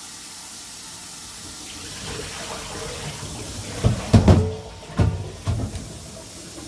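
Water running steadily from a kitchen tap into the sink. Several loud knocks and clunks come in a cluster about four seconds in.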